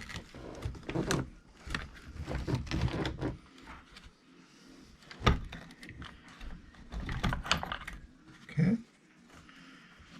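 Small plastic and metal drivetrain parts of a Traxxas E-Revo 2.0 RC truck clicking and rattling as they are handled and fitted by hand, with one sharp click about five seconds in.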